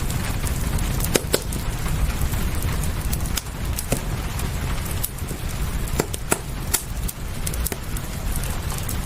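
Fireplace crackling: irregular sharp pops and snaps, roughly two a second, over a steady low rumble and a hiss of rain.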